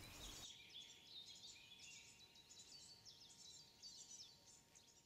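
Faint birdsong: many quick, high chirps and twitters over a faint steady tone, slowly fading away near the end.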